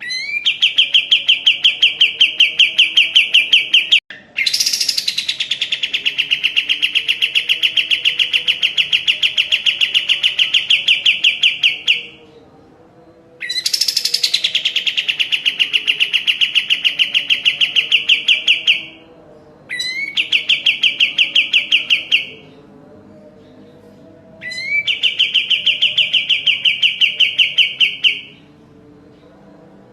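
Kapas tembak bird singing in long, very fast trills of one repeated clear note around 3 kHz. Each phrase opens with a quick rising sweep and lasts several seconds, with short pauses between; a new phrase starts right at the end.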